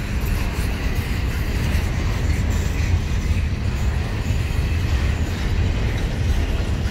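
Freight train rolling along the track with a steady low rumble.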